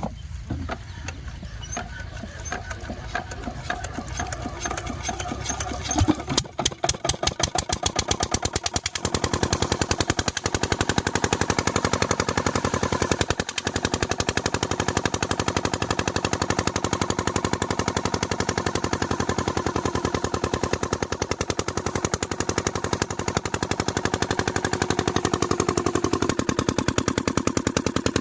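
Diesel irrigation pump engine running with an even chugging beat. About six seconds in it grows much louder and its beat quickens for a few seconds, then runs steady.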